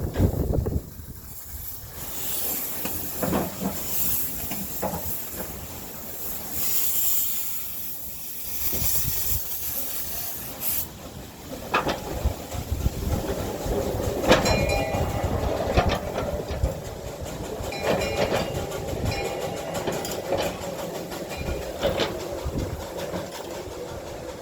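Steam locomotive hissing steam for the first ten seconds or so, then on the move from about twelve seconds in, with sharp knocks and a metallic squeal from the running gear and wheels.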